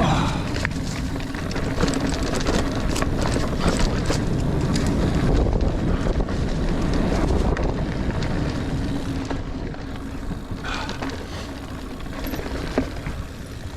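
Niner Air 9 RDO 29er mountain bike ridden along a dirt singletrack trail: tyres rolling over the ground with a steady rumble, with frequent small rattles and knocks over bumps and wind buffeting the microphone. It gets somewhat quieter in the second half.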